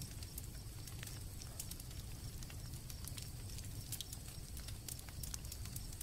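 Campfire crackling, with many small scattered pops over a low steady rumble, and crickets chirping faintly in a steady high band.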